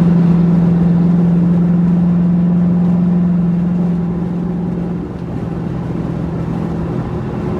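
Car engines running at a steady highway cruise with road and wind noise, heard from inside a car with the window rolled partly down. The steady drone weakens about five seconds in.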